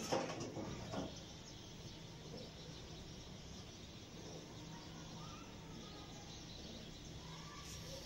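Faint birds chirping over a steady outdoor background hiss, with a short burst of noise in the first second.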